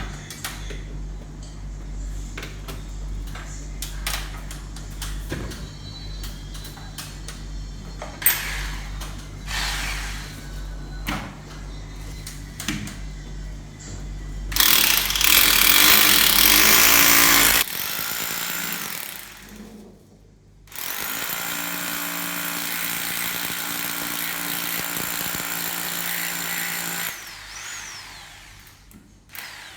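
Electric power tool running in two bursts, a short one and then a longer one of about six seconds, after some scattered knocks and clicks of handling.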